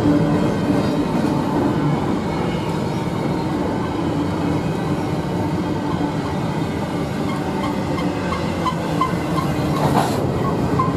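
A double-stack container train rolling past close by, with a steady rumble of steel wheels on the rails. In the last few seconds a light, regular ticking joins in at about three a second, and a single sharp clank comes near the end.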